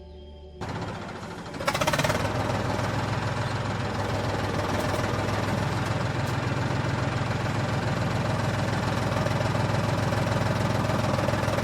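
Tractor engine running at a steady idle-like chug. It starts suddenly about half a second in and grows louder a second later.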